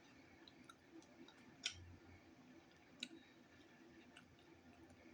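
Near silence with faint wet mouth clicks from quiet chewing of a soft taco, two of them sharper, about a second and a half apart.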